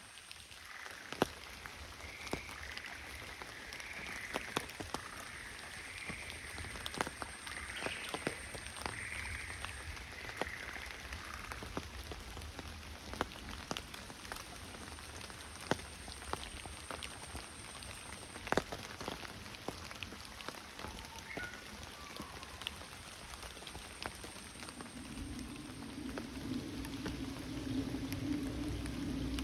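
Steady rain with sharp, irregular drips of large raindrops. For the first ten seconds or so a chorus of frogs calls. A low steady hum comes in about 25 seconds in.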